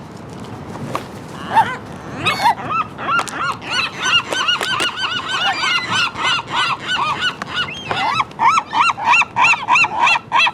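Seagulls calling: a few scattered squawks, then from about two seconds in a fast run of short, arched calls, several birds overlapping, about three or four calls a second.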